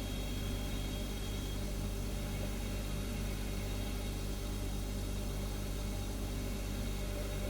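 Refrigerator humming steadily: a low, even hum of several tones over a soft hiss. A faint high whine fades out about a second and a half in.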